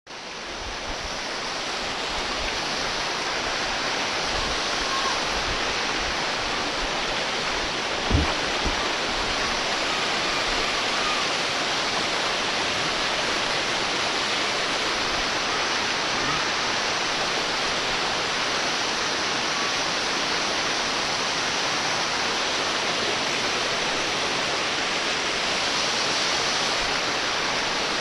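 Waterfall pouring steadily, an even rush of falling water. A brief low thump about eight seconds in.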